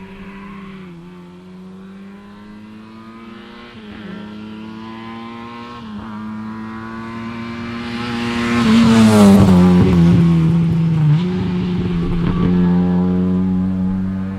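Lada rally car engine approaching at full throttle, revving up and shifting up a gear three times, then passing close about nine seconds in with a drop in pitch and pulling away, still at high revs.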